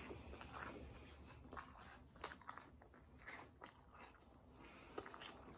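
Faint, irregular crunching of a person chewing a mouthful of Franken Berry cereal in milk.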